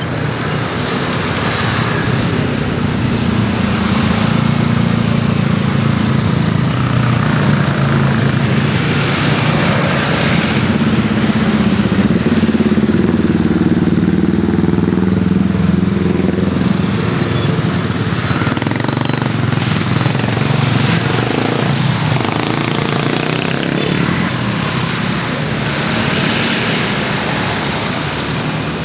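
Steady engine noise with a low hum, swelling to its loudest about halfway through and easing off toward the end.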